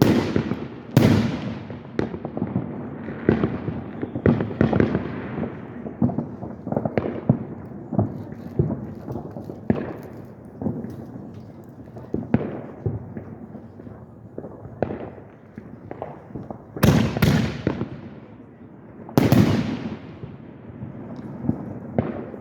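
Aerial fireworks going off: a string of sharp booms, each followed by a rolling echo, with crackling between them and the loudest bursts clustered about a second in and near the end.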